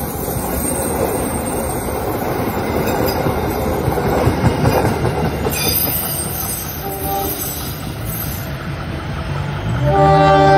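Indonesian train running on its rails: a steady, dense rumble and rattle of wheels and carriage. Near the end it grows louder and a steady pitched tone comes in.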